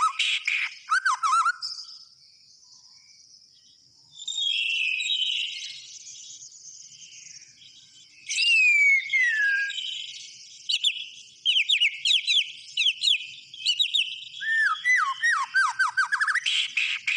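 White-rumped shama (murai batu) singing in full song: varied whistled phrases, with a long falling whistle about eight seconds in and fast runs of short repeated notes in the second half, after a brief lull near the start.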